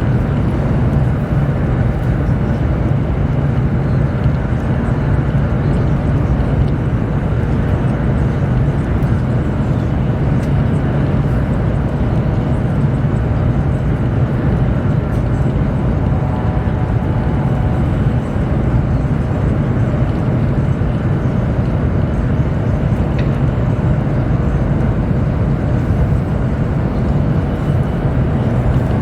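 Chinese high-speed train running at speed, heard from inside the passenger cabin: a deep, steady hum and rush with no changes.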